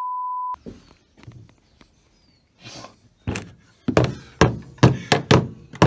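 A short beep right at the start, then a quiet stretch, then a run of about seven sharp knocks, irregular at roughly two a second, from about halfway on.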